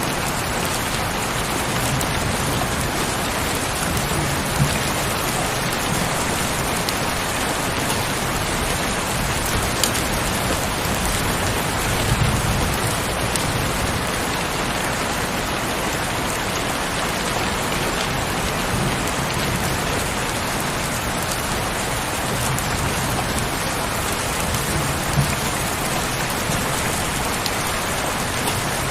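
Heavy rain falling steadily, an even hiss with a few sharper drop taps now and then.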